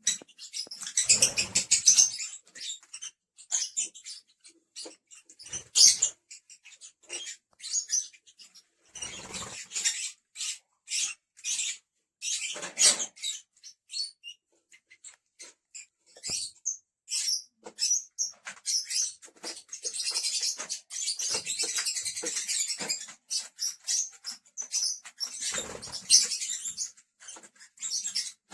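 Lovebirds chirping: rapid, short, high-pitched chirps coming in bursts, with several louder flurries of calls.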